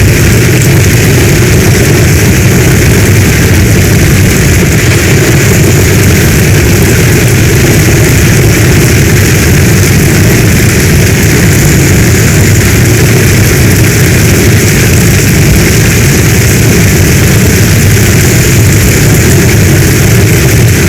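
Heavy rain storm ambience: a loud, unbroken rush of rain over a deep steady rumble.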